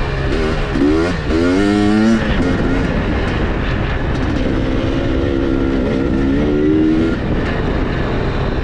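KTM dirt bike engine revving hard, pitch climbing quickly about a second in, then holding a steadier, wavering note, over a constant rush of noise.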